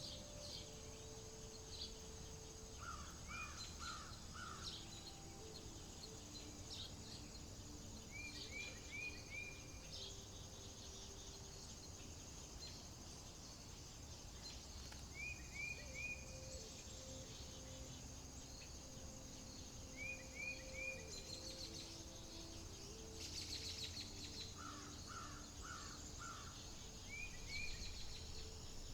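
Outdoor nature ambience: a steady high insect drone, with birds calling every few seconds in quick runs of three or four short rising chirps.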